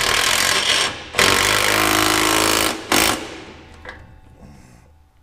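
Impact wrench hammering on an exhaust band clamp nut in three bursts: two of over a second each, then a short one, with the noise dying away after.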